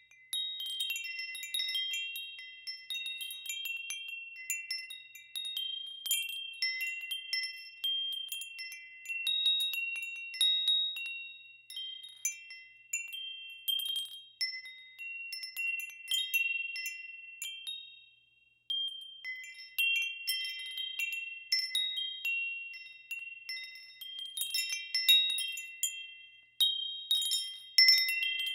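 Wind chimes ringing, with several high, clear notes struck at irregular moments and overlapping as they die away. There is a brief lull about two-thirds of the way through.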